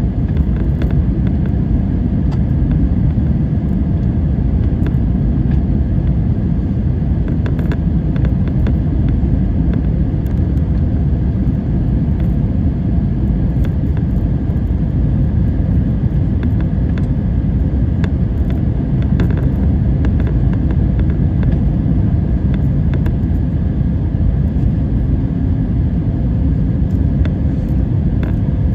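Steady low rumble of an airliner's engines and airflow, with faint steady tones above it, holding even throughout with no rise or fall.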